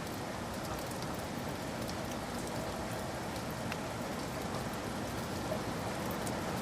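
Steady rain falling, with scattered ticks of individual drops striking a surface.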